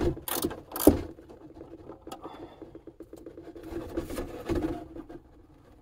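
Ratchet wrench clicking as it backs out an engine oil pan drain plug. Three sharp clicks come in the first second, then quieter, fast, even ticking.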